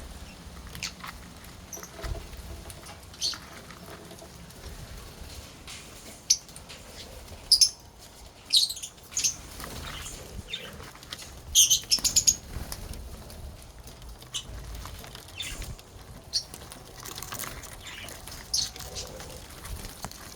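Lovebirds chirping: short, high-pitched squeaks scattered irregularly, the loudest coming in a quick cluster of several about halfway through.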